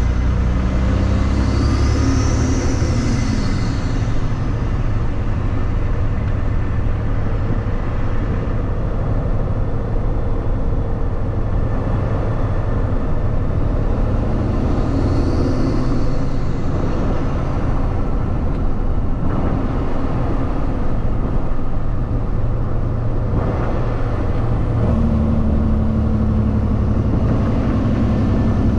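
Kenworth W900 semi truck driving, its diesel engine and road noise a steady rumble; the engine's pitch shifts about 25 seconds in.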